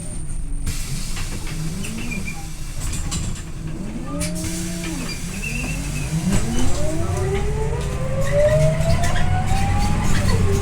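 Scania OmniLink I city bus heard from inside the cabin: the engine runs with a low hum and a drivetrain whine that dips and rises, then climbs steadily in pitch from about halfway through as the bus accelerates.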